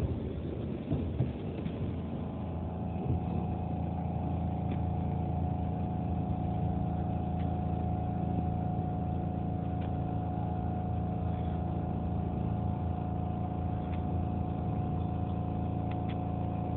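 Cabin sound inside a Keihan 600 series electric train: a steady electrical hum holding a few fixed tones, with a few knocks in the first couple of seconds.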